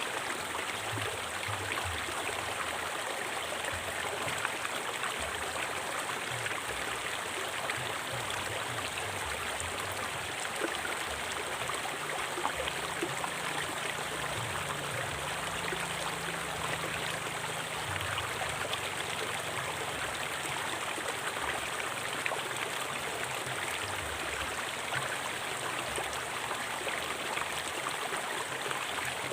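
River water flowing steadily over rocks, an even rushing and gurgling with no let-up.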